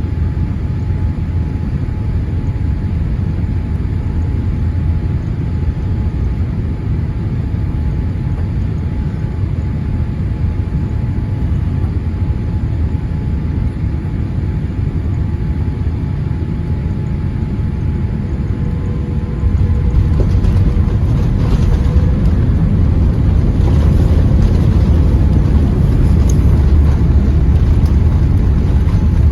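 Boeing 787-8 cabin noise on final approach: a steady rush of engines and airflow. About two-thirds of the way through it steps suddenly louder into a heavier low rumble with scattered knocks, the airliner touching down and rolling on the runway.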